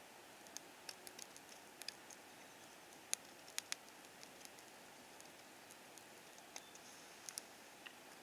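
Campfire crackling: irregular sharp pops and snaps of burning wood over a faint steady hiss, the loudest few about halfway through.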